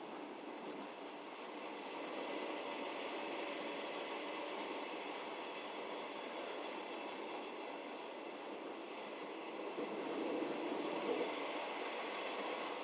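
JR Hokkaido 711 series electric multiple unit running along the line, heard from inside the passenger car: a steady rumble of wheels on rail that grows a little louder about ten seconds in.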